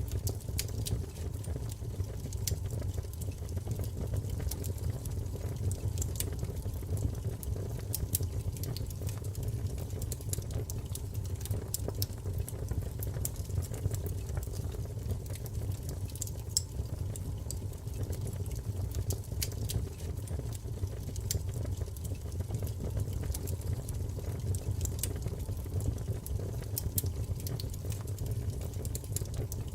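Wood fire in a fireplace crackling, with frequent irregular pops and snaps over a steady low rumble of flames.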